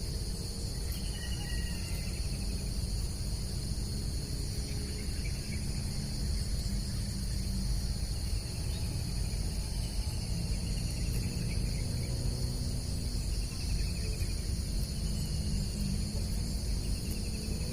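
Steady, high-pitched chorus of crickets and other insects, with short falling chirps every couple of seconds over a constant low rumble.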